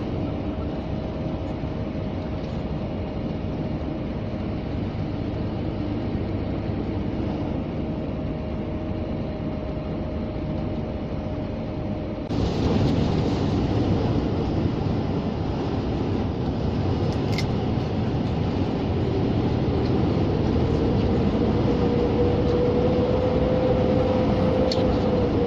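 Inside the cab of a Scania G460 lorry on the move: steady diesel engine and road noise. About twelve seconds in it gets suddenly louder and brighter, and later a faint engine tone rises and eases off.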